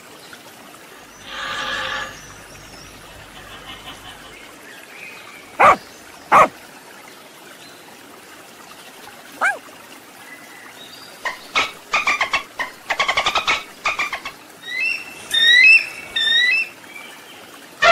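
A dog barking, two sharp barks a few seconds in and another a few seconds later, then a bald eagle's high chirping calls, a quick run of short notes followed by repeated rising chirps near the end.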